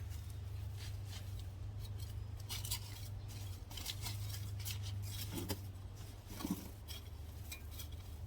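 Potting soil being dug through by hand, an irregular run of crisp scratching and rustling clicks over a steady low hum.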